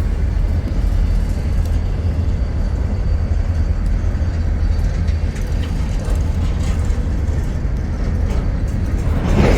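O gauge model train running along its track: a steady low rumble from the wheels and motor, with a louder noisy swell near the end.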